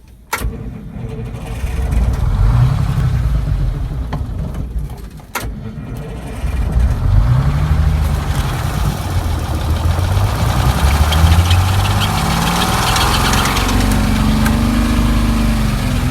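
Detroit Diesel 6-71 two-stroke inline-six diesel cranking over and firing up on its first start after sitting about twenty years. After a sharp click the engine catches and runs, sags around five seconds in, then picks up again after another click, with the revs rising and falling.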